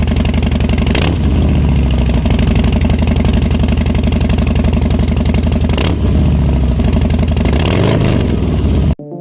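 Harley-Davidson Low Rider S's Milwaukee-Eight 117 V-twin idling with a pulsing beat through an aftermarket Pitbull Cycle exhaust, blipped quickly about a second in, again around six seconds and once more near the end. The engine sound cuts off abruptly just before the end.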